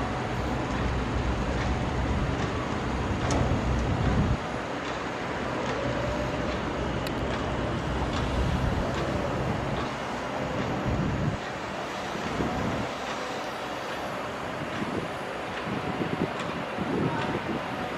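Diesel engines of construction machinery, a crawler excavator and a farm tractor, running and working, with a few short clanks. The deep engine drone drops off abruptly about four seconds in, and quietens again about eleven seconds in.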